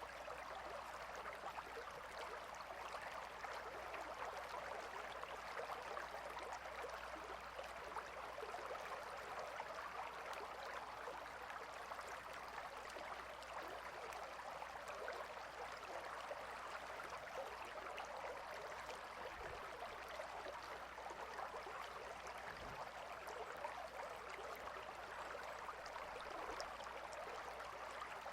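Gentle river flowing: a steady, even rush and babble of running water.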